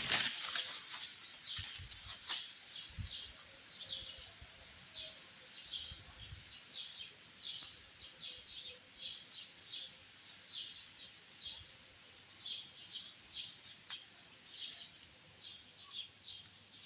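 Small birds chirping: short high chirps repeating over and over, several a second. In the first couple of seconds there are also a few rustles and sharp clicks.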